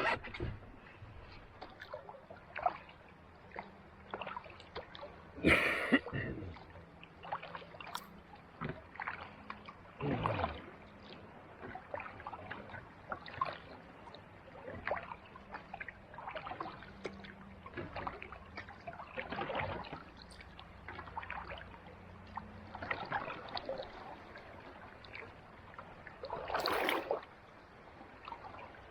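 Kayak paddle strokes in calm sea water: irregular dips and splashes with trickling drips. Three louder splashes come about five seconds in, about ten seconds in, and near the end.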